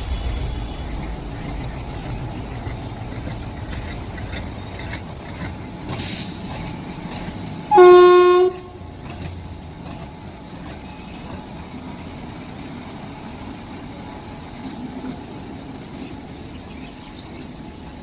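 Train running with a steady low rumble. A single short train horn blast about eight seconds in is the loudest sound.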